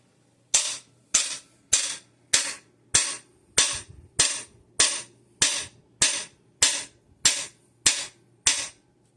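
Hammer striking a cam bearing installer tool, driving a new cam bearing into its bore in an engine block. There are fourteen steady blows about 0.6 s apart, each a sharp metallic hit with a short ring.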